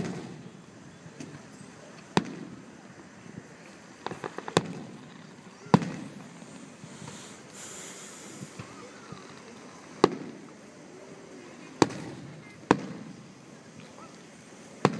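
Aerial fireworks shells bursting, about eight sharp bangs spaced a second or more apart, each followed by a rolling echo. A quick run of crackles comes about four seconds in.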